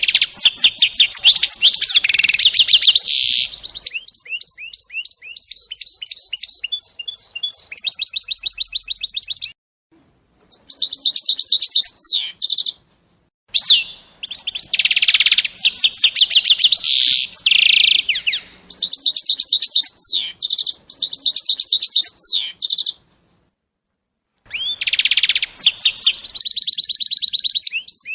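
A songbird singing long phrases of rapid trills and high warbles, broken by a few short, abrupt silent gaps.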